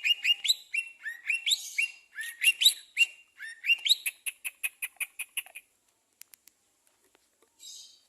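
A small songbird singing a fast run of chirps, many of them quick rising notes, ending in a rapid even trill of about ten notes a second. The song stops a little past halfway, leaving a few faint clicks.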